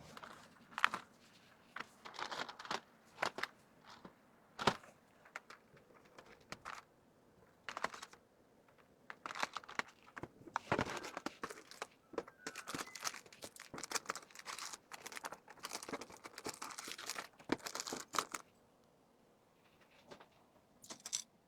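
Plastic packaging crinkling and rustling in handling, with scattered sharp clicks and taps, in irregular bursts that pause for a while near the end.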